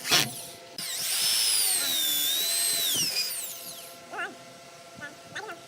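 Power drill running for about three seconds, starting abruptly about a second in, its pitch rising and falling as it runs.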